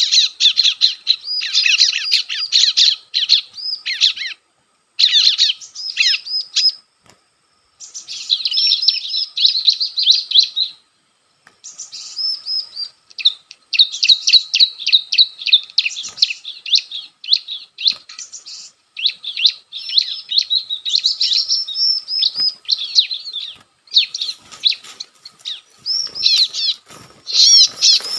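Bar-winged prinia (ciblek) calls: rapid, high chattering notes in repeated bouts with short breaks between them. Near the end, wing flapping comes in over the calls.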